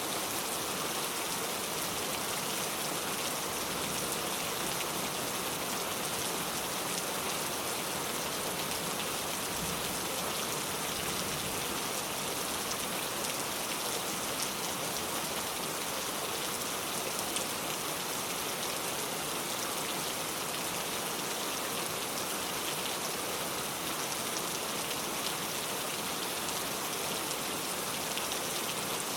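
Steady rain falling on a car, a continuous patter of drops striking the body and glass.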